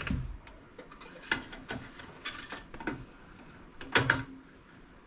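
Irregular sharp clicks and light knocks of a screwdriver and small parts being handled against a desktop PC's case, about eight in all, the loudest about four seconds in.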